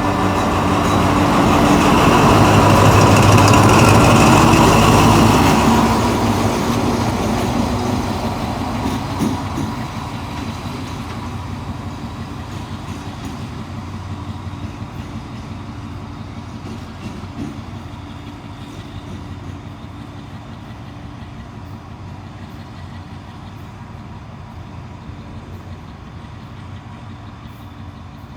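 Diesel train engine running close by, loudest for the first five or six seconds, then fading steadily as the train moves away.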